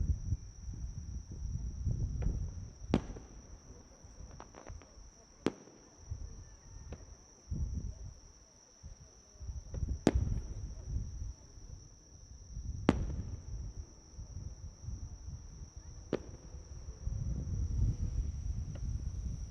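Fireworks bursting: about five sharp bangs at uneven intervals, the loudest about ten and thirteen seconds in, over a low rumble. A steady high insect trill, typical of crickets, runs underneath.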